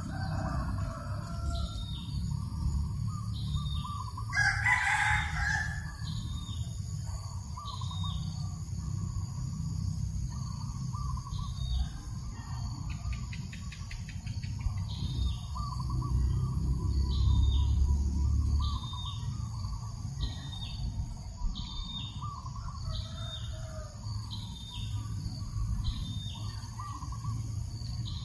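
A rooster crows once about four seconds in. Under it, a short high note repeats about once a second, and wind rumbles on the microphone.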